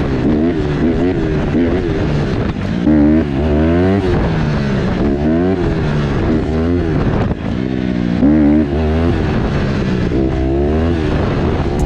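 Honda CRF150R's single-cylinder four-stroke engine revving up and down again and again, its pitch rising and falling every second or two.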